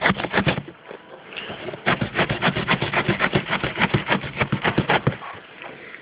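A dull blade sawing back and forth through a shipping box in quick, even strokes, about eight a second. It stops briefly near the start and then again about five seconds in.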